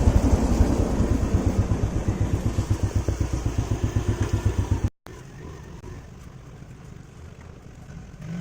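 Engine running with a rapid, even putter, which stops abruptly about five seconds in. After that only a much fainter steady outdoor background remains.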